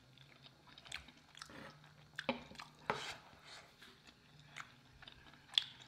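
A person chewing a mouthful of chicken pot pie lasagna, faint, with scattered soft mouth clicks and smacks.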